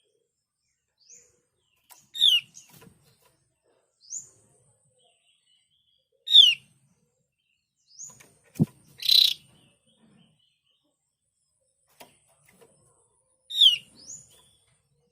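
Javan grey-throated white-eye (opior jawa) calling: short, sharp down-slurred notes repeated every few seconds, with fainter rising notes between them. About halfway through comes a click, then a brief harsh rasp.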